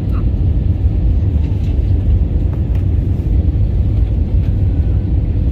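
Steady low rumble inside the cabin of an Airbus A320 airliner: engine and airflow noise, with no sharp knocks or changes.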